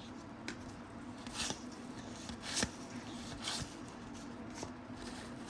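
Faint rustles and soft ticks of cardboard trading cards being slid one off another in a hand-held stack, about one every second.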